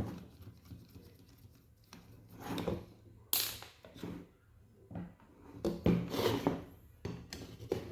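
Scattered clicks and knocks from handling small objects, with one sharp snap a little over three seconds in.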